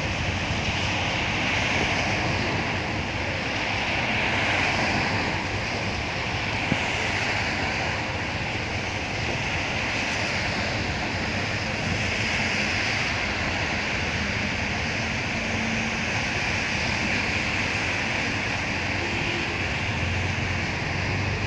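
Rain falling steadily: an even hiss that swells and eases slightly.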